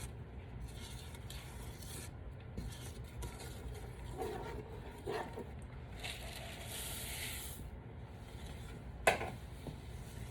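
A spoon stirring and scraping through a thick mix of oats and chocolate-peanut butter batter in a pot, in soft uneven strokes, with one sharp knock about nine seconds in.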